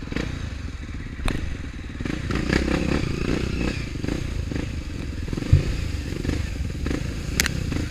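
Off-road motorcycle engine running, with a few sharp knocks and a low thud about halfway through.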